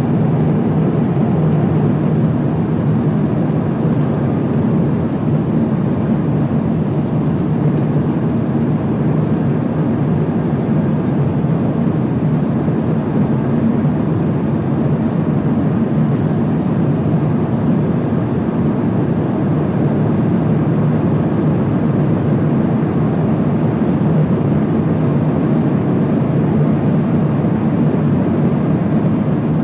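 Steady cabin noise of an Airbus A350-900 airliner in cruise at high altitude: a constant low drone of airflow and engines.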